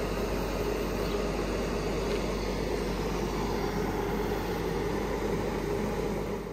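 Steady running noise of a train: an even rumble with a faint steady hum, fading out quickly at the very end.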